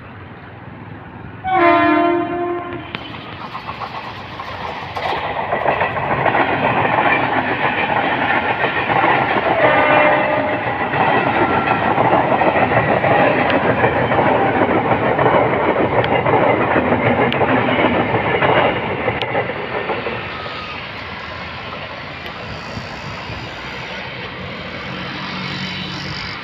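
Mumbai suburban EMU local train sounding its horn in a loud blast about two seconds in and a shorter one near the tenth second, then running past with a steady rumble and clickety-clack of wheels over rail joints. The rumble falls away after about twenty seconds as the last coaches go by.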